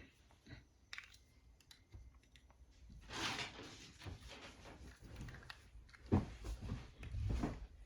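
Small plastic parts of a Hexbug Land Rover kit being handled and pushed together, giving scattered light clicks and knocks, with a short rustle about three seconds in and a louder knock about six seconds in.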